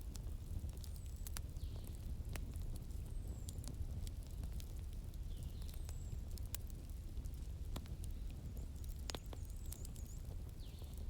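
Wood fire crackling, with irregular sharp pops over a steady low rumble. Short high falling chirps come every second or two, typical of a bird.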